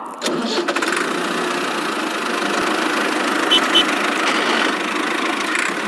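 Vehicle engine idling steadily, with two short high chirps about three and a half seconds in.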